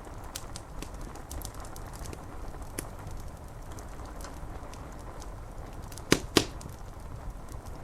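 Wood fire crackling, with scattered small clicks and two loud pops close together about six seconds in, over a steady wash of rain on window glass.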